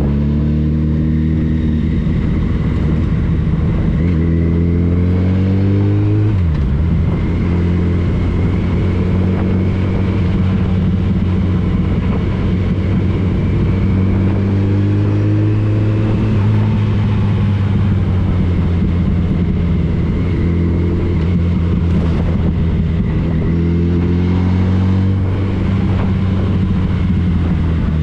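Yamaha FJR1300 sport-touring motorcycle's inline-four engine under way, pulling up in pitch through the first few seconds and dropping sharply at a gear change about six seconds in, then running steadily at speed with a few more rises later.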